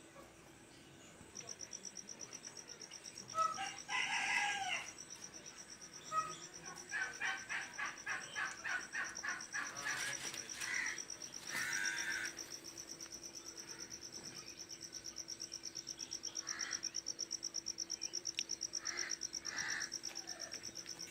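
Fowl calling: a crowing call about four seconds in, then a run of rapid repeated notes and further calls. Behind them runs a steady, fast-pulsing high trill.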